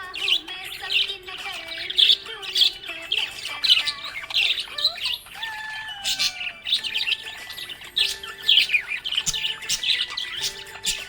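Budgerigar chirping and warbling in quick, continuous chatter, with many short squeaky notes one after another.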